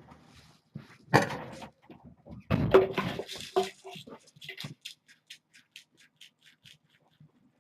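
Handling noises: knocks and scrapes, the loudest a clatter about two and a half seconds in, then a run of light, evenly spaced ticks about three a second that fades out.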